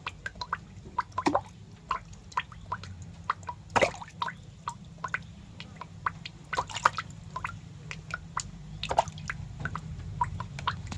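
Irregular wet clicks and drips, a few a second and uneven in strength, over a low steady hum.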